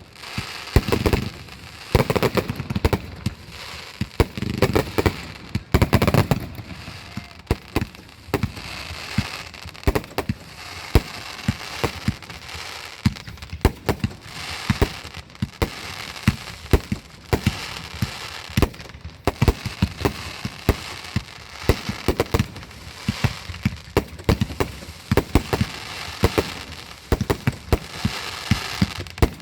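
Aerial fireworks going off in a rapid, continuous barrage: sharp bangs several times a second with crackling between them, and heavier booms in the first few seconds.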